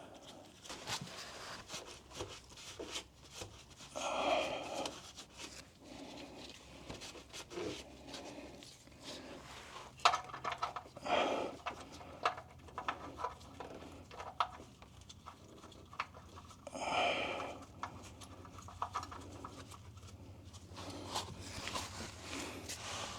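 Scattered small clicks and handling sounds as a FUMOTO quick drain valve is threaded into the oil pan's drain hole by hand. Two louder, second-long noises come about four and seventeen seconds in, and there is a sharper click about ten seconds in.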